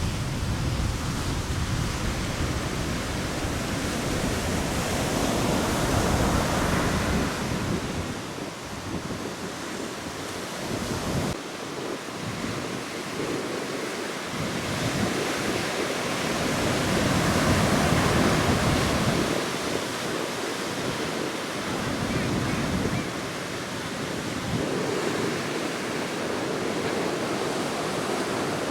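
Sea surf breaking and washing up a beach in swells, with wind rumbling on the microphone, heaviest in the first several seconds.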